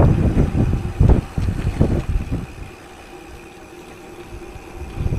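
Wind buffeting the microphone in loud, uneven low gusts that die away about two and a half seconds in, leaving a faint steady hum.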